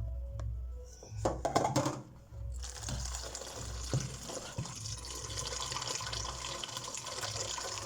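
A few knocks and clatters, then from about two and a half seconds in a steady stream of running water pouring into a container.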